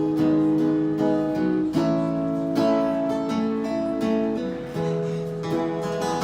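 Acoustic guitar strumming sustained chords that change every second or two: the instrumental introduction of a song.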